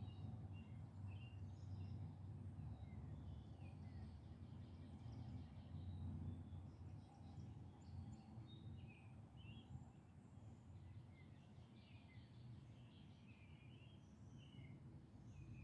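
Faint birds chirping outdoors: many short, high chirps, some sliding down in pitch, over a steady low rumble.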